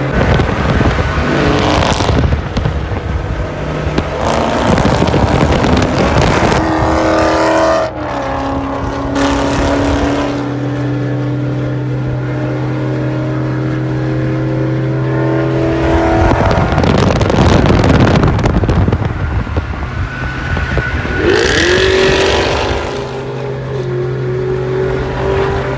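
Car's V6 engine pulling under throttle while driving, its pitch climbing slowly, falling away and climbing again, with steady road and tyre noise.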